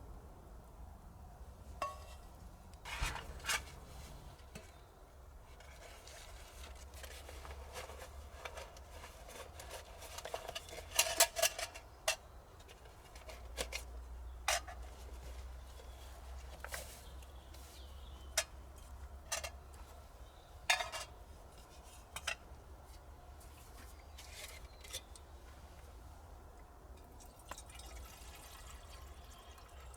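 Metal utensils and camp cookware being handled: scattered clinks and knocks, about fifteen sharp strikes spread out irregularly, some ringing briefly.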